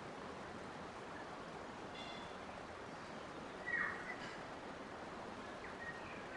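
Steady rush of flowing water with a few short bird chirps, the loudest one about halfway through.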